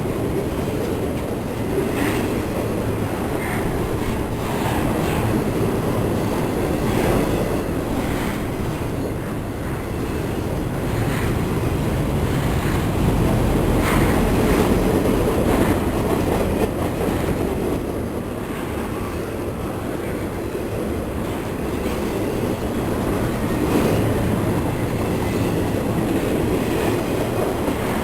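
Railcars rolling steadily past on the track, with wheels clicking now and then over rail joints.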